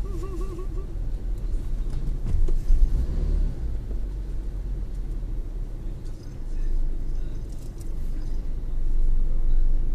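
Car engine idling, heard from inside the cabin: a steady low rumble, with a short louder thump about two and a half seconds in.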